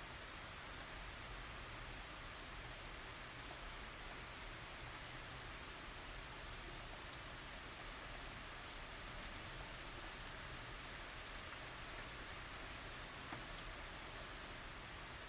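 Steady tropical rain falling on surfaces: an even hiss threaded with many small drop ticks, without thunder.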